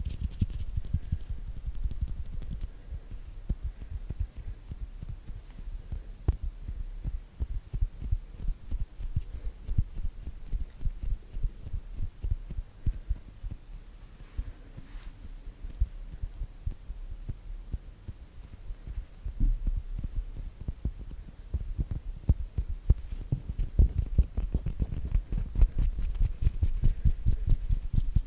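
Hands rubbing, fluttering and tapping close to a sensitive microphone, a dense run of soft low thuds and light clicks that grows busier near the end.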